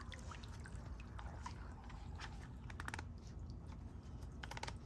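Small floating bird bath fountain being handled in the water with its arms pushed in: faint irregular clicks and crackles over a steady low rumble, with a small cluster of clicks about three seconds in and again near the end.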